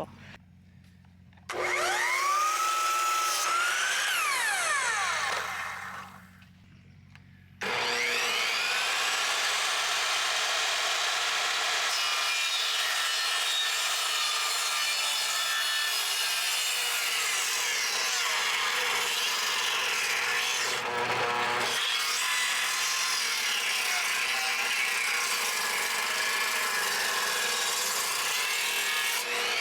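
Electric power saw cutting wood. The motor spins up with a rising whine about one and a half seconds in and cuts for a few seconds, stops briefly around six seconds, then starts again for a long, steady cut.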